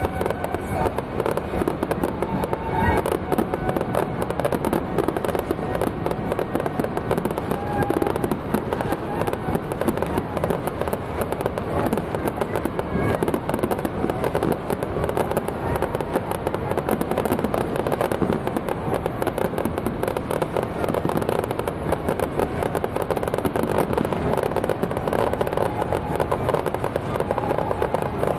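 Fireworks going off without pause, a dense, continuous crackle of many small bangs.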